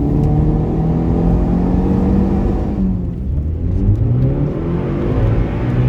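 Turbocharged Mitsubishi 4G63T four-cylinder breathing through a 2.5-inch exhaust with a Flowmaster 80 Series muffler, pulling under acceleration with a rising pitch. About three seconds in the pitch and level drop briefly, then the engine climbs again.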